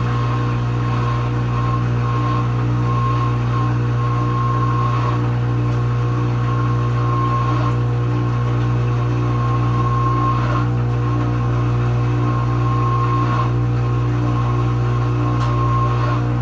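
Kenmore Ultra Wash dishwasher running its heated final rinse: the circulation pump motor hums steadily at a constant pitch, with a faint higher tone and water noise over it.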